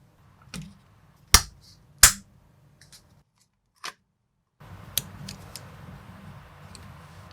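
Plastic building bricks clicking and snapping together in a handful of separate sharp clicks, two of them loud. About halfway through, the sound cuts out completely for over a second, then returns with a faint steady hiss and a few lighter ticks of bricks being handled.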